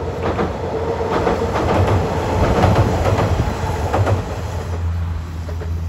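JR Shikoku's 'Jidai no Yoake no Monogatari' tourist train, a diesel railcar, passing close by. Its wheels click over the rail joints for about four seconds, over a steady low engine drone, and it is loudest about halfway through.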